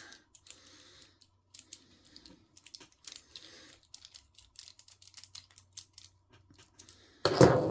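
Small clicks and scrapes of a hand tool and small metal parts as a Loctited screw is backed out of an RC car's aluminum steering bell crank. There is one louder knock near the end.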